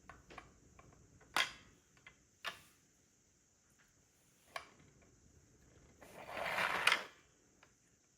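Plastic LEGO pieces being handled: a few sharp clicks and taps, then a rustle of about a second near the end that finishes with a click.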